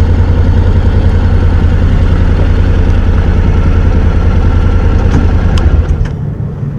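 Honda NC750X motorcycle's parallel-twin engine idling steadily, its low hum dying away about six seconds in.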